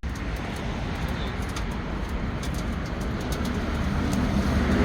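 Wood fire crackling in a freshly lit wood stove, with scattered sharp pops over a steady low rumble.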